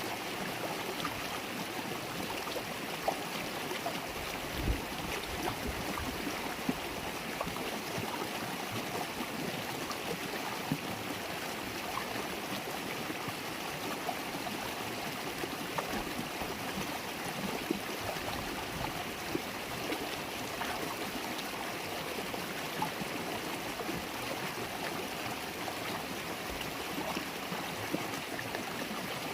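River water babbling and gurgling over stones: a steady rush of flowing water with small splashes scattered through it.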